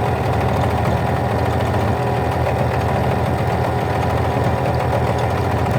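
Hidea 9.9 outboard motor running steadily, its engine turning the charging generator while the generator feeds an electrical load.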